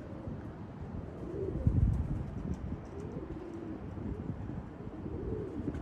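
Domestic pigeons cooing, soft low calls repeated about three times, over a low rumble that swells briefly about two seconds in.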